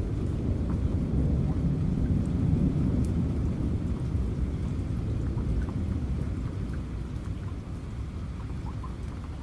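Heavy rain with a low rolling rumble of thunder that swells a couple of seconds in and slowly dies away, with faint scattered raindrop ticks.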